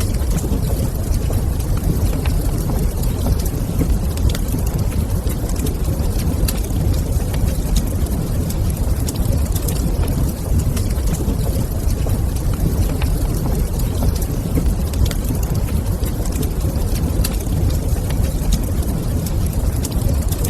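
Log fire burning in a stone fireplace: a steady low rumble with many small crackling pops scattered throughout.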